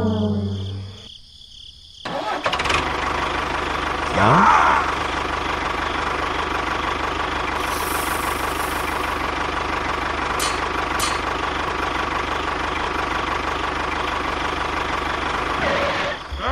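A small engine starting about two seconds in with a quick rising rev, then running steadily.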